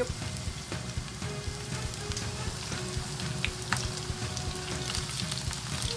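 Starch-coated chicken pieces frying in shallow oil in a frying pan: a steady sizzle with frequent crackles and pops as the pieces are turned with chopsticks. This is the first fry, with the oil at about 160 °C.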